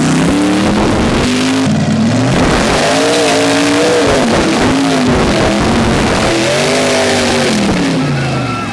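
Mud truck engine revved hard and let off again and again, its pitch rising and falling every second or so, over a loud steady rush of noise.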